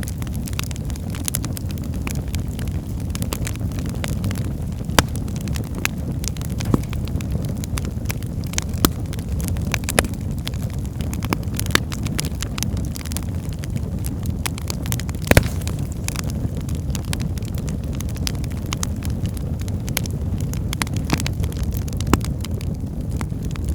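Wood fire burning in a fireplace: a steady low rumble of the flames with frequent sharp irregular crackles and pops, a few louder snaps among them.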